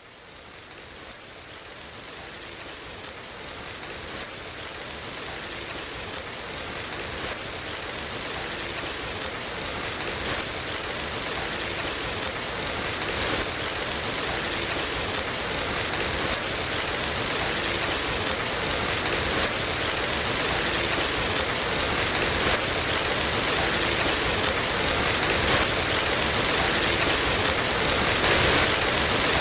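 Steady, dense rainfall, a continuous even patter, fading in gradually and growing louder over the first ten seconds or so before levelling off.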